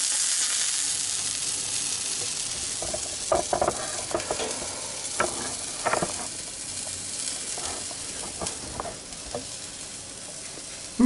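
A small test piece of chicken forcemeat sizzling in a nonstick frying pan, the hiss fading gradually. It is broken in the middle by several short, sharp sounds.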